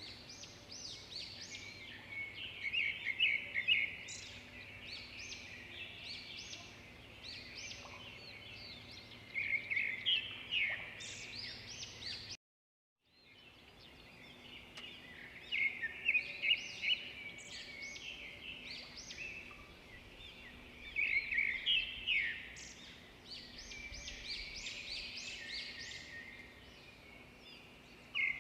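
Several birds singing and chirping in quick clusters over a faint steady background hiss. The whole sound cuts out to silence for about half a second near the middle, then the birdsong resumes.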